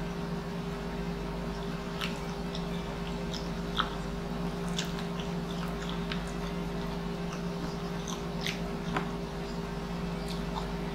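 Close-up mouth sounds of a person eating noodles: chewing with wet lip smacks and scattered sharp clicks. A steady low hum runs underneath.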